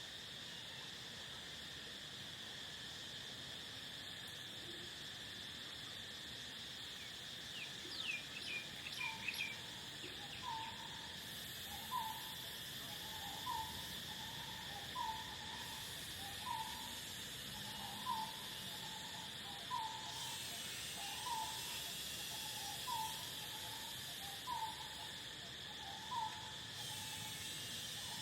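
Steady chorus of crickets with a high, even trill. About eight seconds in comes a quick cluster of bird chirps, then a bird repeats a short call roughly every second and a half.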